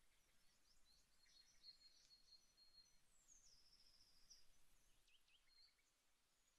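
Near silence with faint birds chirping and calling, including a short high trill about halfway through.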